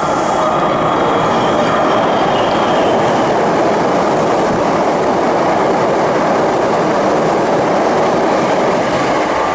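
Hankyu electric train running along the track, a loud steady rumble of steel wheels on rails with some clatter and a little wheel squeal.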